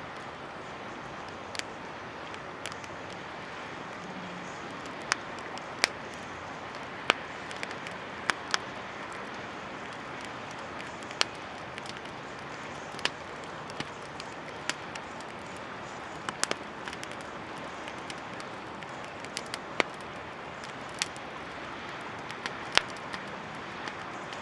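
Wood campfire crackling, with sharp irregular pops about once a second over a steady hiss.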